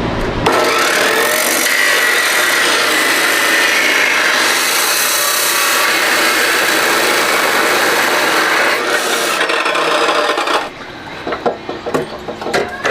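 A handheld power tool cutting or grinding steadily for about ten seconds, with a faint wavering whine in the noise. It stops abruptly near the end, followed by a few scattered knocks.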